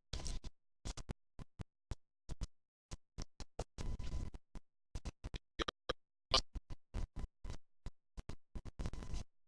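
Choppy, broken-up audio: short bursts of scratchy handling noise keep cutting out into dead silence many times, a faulty recording with constant dropouts.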